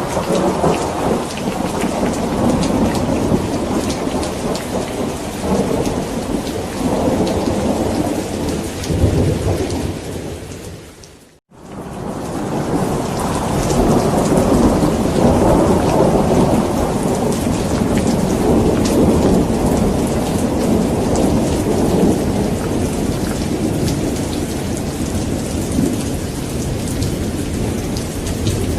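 Steady rain with thunder rumbling and rolling underneath. About a third of the way in, the whole sound fades out for a moment and then swells back in.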